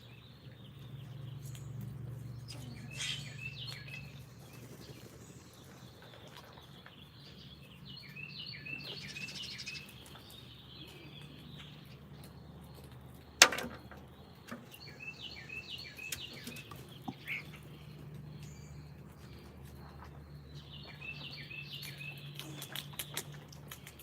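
Small birds chirping in short runs of quick falling notes, several times over, above a steady low hum. A single sharp click sounds about halfway through.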